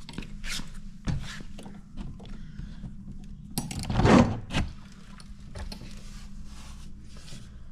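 A vintage camper door's latch and handle being worked, giving metal clicks and rattles, with one louder clunk about four seconds in as the door is pulled open.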